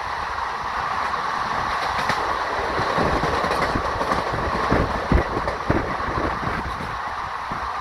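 Train rolling through the station, with a steady rumble and the irregular clack of wheels over rail joints, heaviest about five seconds in.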